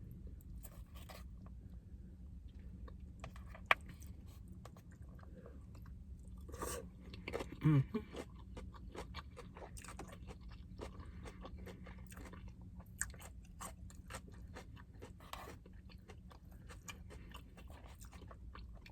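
A person chewing a mouthful of food, with many small wet mouth clicks and smacks, and a short falling hum from the throat about eight seconds in. A steady low hum runs underneath.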